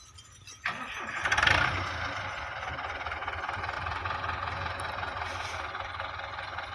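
Belarus 510 tractor's diesel engine starting about half a second in, revving briefly as it catches, then settling into a steady run.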